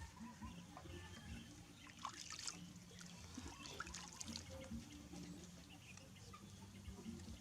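Water trickling with small, light splashes, densest about two seconds in and again around four seconds, as of a baby monkey being bathed.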